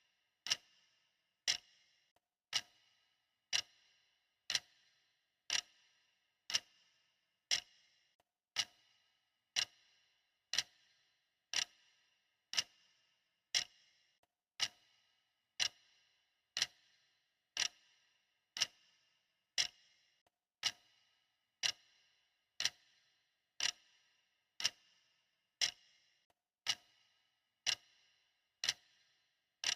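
Clock ticking steadily at one tick a second. Each tick is a sharp click with a brief metallic ring.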